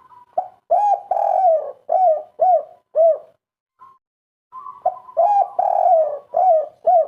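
Spotted dove (tekukur) singing its 'kuk 3' song twice: each phrase opens with a soft steady note, runs into a drawn-out coo and ends with three short, clipped coos.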